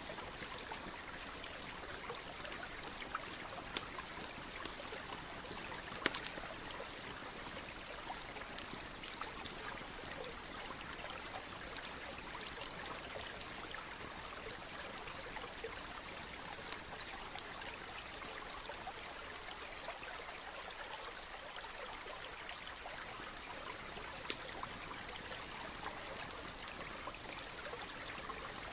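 Wood campfire crackling, with irregular sharp pops scattered through and one louder pop about six seconds in, over the steady rush of a running stream.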